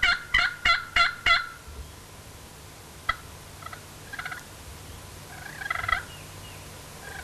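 A hunter's turkey call worked aggressively: a fast, even run of loud yelps, about three a second, that stops about a second and a half in. Scattered turkey calls follow, the loudest a rattling burst about six seconds in.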